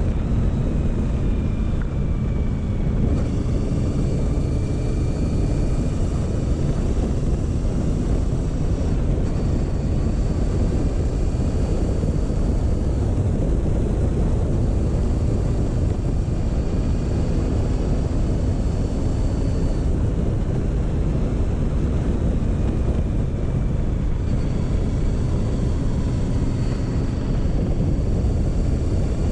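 Motorcycle engine running steadily at an easy cruising pace, its note drifting gently up and down, under a heavy, constant rumble of wind on the microphone.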